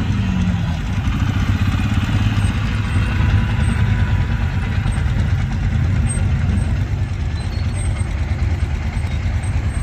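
Truck engine running steadily at low revs with a deep exhaust rumble.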